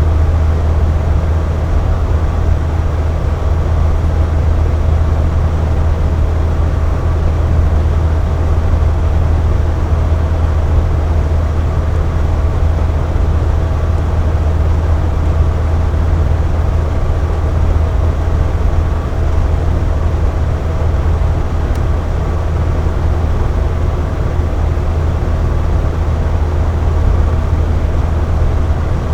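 Air conditioner running steadily: a deep, even hum with fan noise over it and a few faint steady tones higher up.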